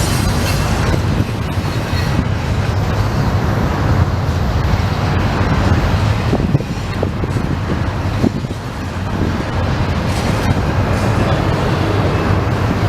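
Long intermodal freight train passing close by: a steady, loud rumble of wheels on rail with a low hum underneath and a few sharp clanks scattered through it.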